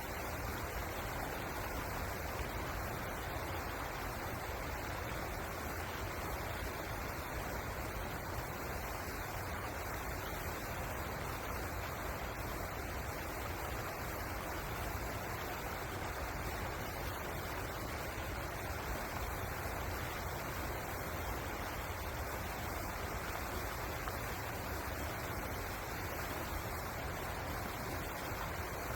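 Flowing river water making a steady, even rush with a low rumble beneath it.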